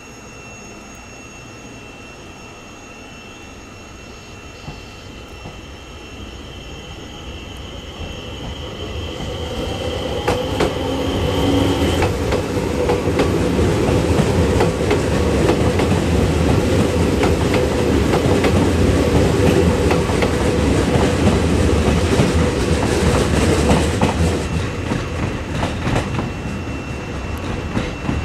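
Electric commuter train running over the pointwork, its wheels clicking over the rail joints and switch frogs. The running noise swells over several seconds, stays loud for about ten seconds, and eases near the end. A thin high whine stops about twelve seconds in.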